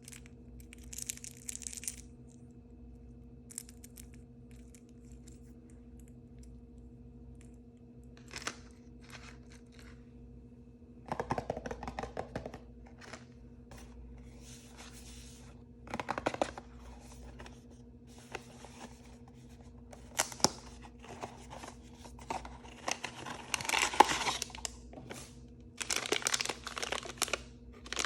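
Blind-bag toy packaging being torn open and crinkled by hand, in scattered bursts with quiet gaps between them that grow busier and louder in the second half. A faint steady hum lies underneath.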